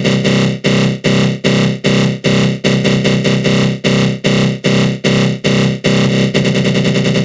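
Synthesized 'attack growl' sound effect: a flanged synth tone pulsing about two and a half times a second. About six seconds in, the pulses come quicker and shallower.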